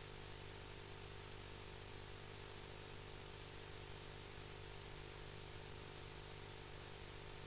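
Steady faint hiss with a low electrical hum, unchanging throughout: the recording's own noise floor, with no bird calls or other distinct sounds.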